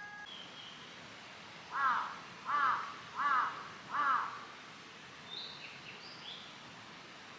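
A bird calling four times in an even series, about two-thirds of a second apart, followed by a few faint, higher chirps from another bird, over a low steady outdoor hiss.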